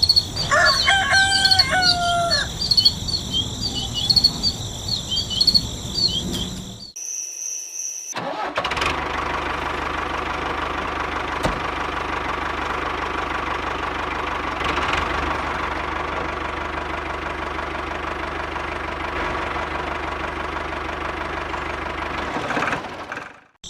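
Crickets trilling with a rooster crowing for about the first seven seconds. Then, after a brief break, a small motor runs steadily for about fourteen seconds before cutting off near the end.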